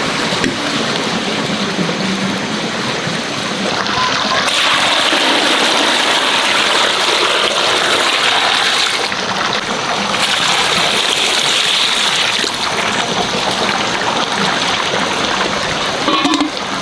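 Water running steadily, its rushing sound shifting in tone a few times.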